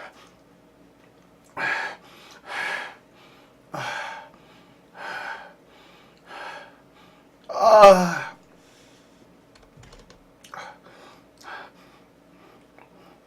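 A man breathing heavily in short, breathy gasps about a second apart, with one loud groan that falls in pitch a little under halfway through.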